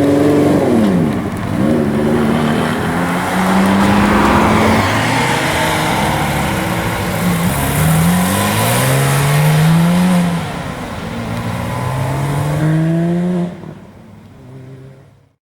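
Car engine accelerating hard through the gears: its pitch climbs, drops at each upshift and climbs again several times, then the sound falls away sharply near the end.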